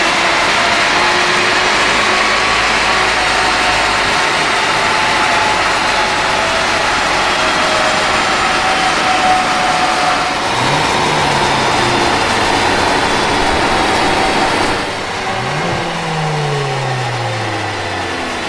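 VW Golf GTI Mk8's 2.0-litre turbocharged four-cylinder and its wheels spinning the dyno rollers at high road speed, with loud tyre and roller noise. About fifteen seconds in the noise drops and the pitch falls steadily as the car slows on the rollers.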